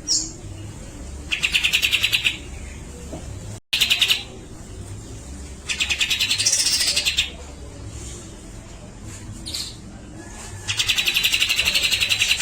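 Grey-cheeked bulbul (cucak jenggot) calling in repeated bursts of fast, harsh rattling chatter, each lasting about a second, four times, with a few short whistled notes in between.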